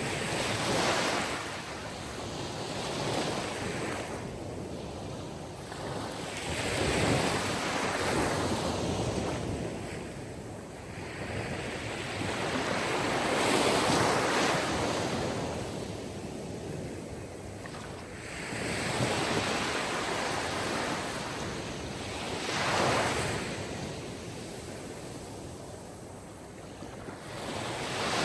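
Sea surf: waves breaking and washing in, swelling and falling back every few seconds.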